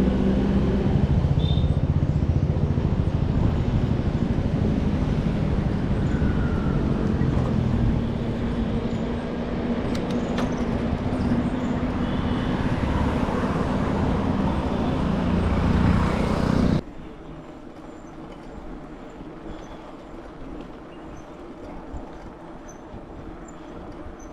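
Road traffic noise with a heavy low rumble and a steady engine-like hum. It cuts off abruptly about seventeen seconds in, leaving a much quieter, steady background with faint light ticks.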